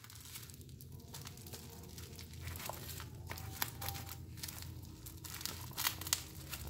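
Parcel wrapping crinkling and tearing as it is handled and pulled open by hand, in scattered crackles over a low steady hum.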